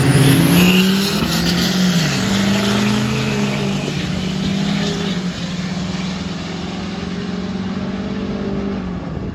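Diesel pickup truck engine pulling hard at high revs. Its pitch dips briefly about two seconds in, then holds steady and falls away near the end.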